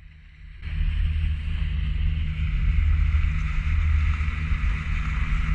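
Small boat's motor running steadily, a low even hum with a hiss of wind and water over it, starting up in level just under a second in.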